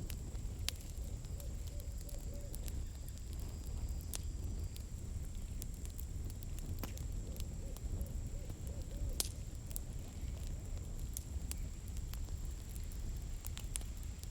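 Campfire burning, wood crackling with scattered sharp pops over a steady low rumble of the flames.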